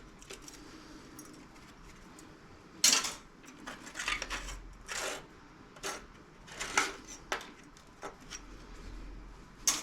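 Small pieces of scrap metal clinking and clattering as they are handled and dropped onto a pile. There are several separate sharp clinks a second or so apart, the loudest about three seconds in.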